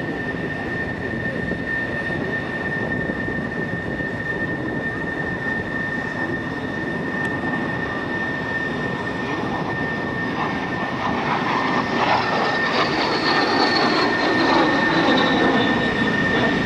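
Aero L-39 Albatros jet trainer's single turbofan engine running with a steady high whine over a wide rush of engine noise. It grows louder about two-thirds of the way in, and a high tone falls in pitch near the end as the jet passes in a high-speed dive.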